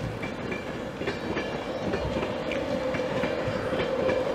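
Intercity 225 passenger train rolling into the platform, its wheels clicking over the rail joints, with a steady whine that grows louder as the Class 91 electric locomotive at the rear draws near.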